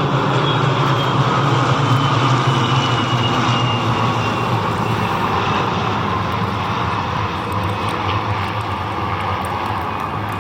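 Propeller aircraft engine droning as a vintage warbird flies past; the pitch drops slightly after the middle and the sound slowly fades.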